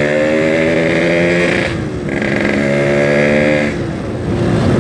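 Yamaha RX-King's single-cylinder two-stroke engine running at steady revs while riding. Its note drops away briefly about two seconds in and again near the end, then picks up.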